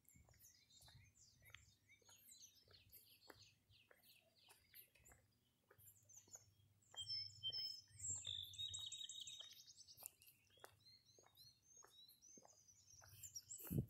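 Several small birds singing and chirping, faint, with a rapid repeated trill in the middle. Faint even ticks about twice a second run underneath.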